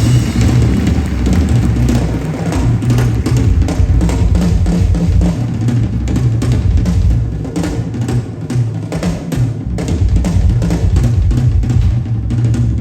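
Live drumming from a stage percussion show: a fast, dense drum rhythm with a heavy bass drum, loud throughout.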